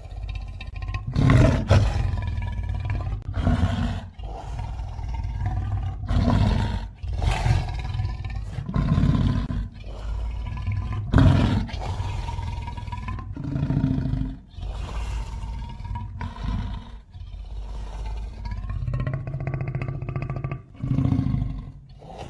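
A string of monster roar and growl sound effects made from lion and giant-ape roars: about a dozen deep roars one after another, each a second or two long with short breaks between them.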